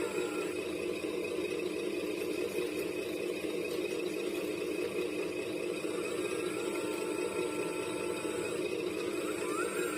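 Steady mechanical hum of 1/14-scale radio-controlled construction models running, with faint whines that glide in pitch about two-thirds of the way through and a short rising-then-falling whine near the end.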